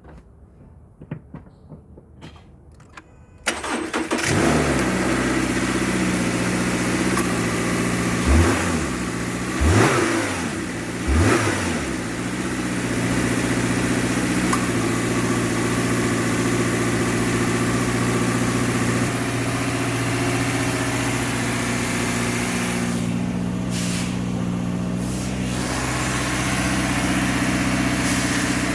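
2018 Subaru XV's flat-four boxer engine cranked and started after a few light clicks, revved briefly three times, then idling steadily.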